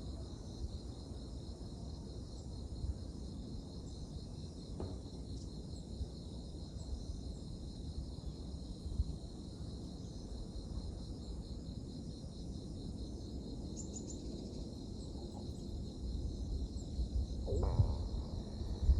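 A steady, high, pulsing chorus of insects such as crickets, over a low rumble that swells near the end. A short rising call or sweep sounds near the end.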